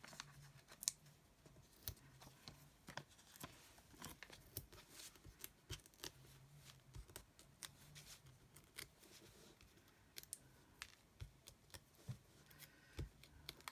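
Faint, scattered clicks, taps and rustles of paper and card-making supplies being handled on a craft desk, over a faint low room hum.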